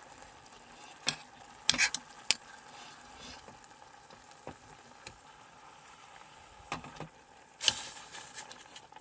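Pan of chicken in curry sauce with rice bubbling gently, the chicken boiling in the sauce rather than frying. A utensil scrapes and clinks against the pan a few times, around 2 s in and again near the end.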